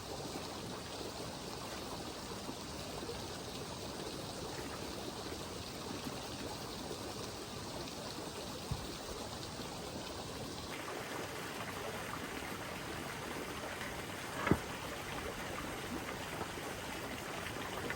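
Steady rush of running water, an even noise that holds throughout, with a single short knock about three-quarters of the way in.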